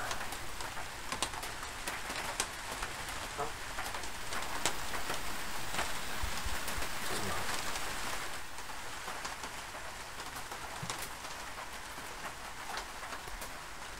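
Steady rain pattering, with scattered sharp drip-like ticks.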